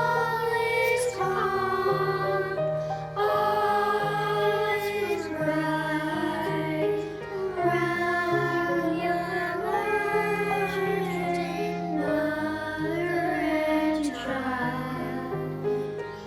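Music: a woman singing a slow song with long, wavering held notes over a low, sustained accompaniment.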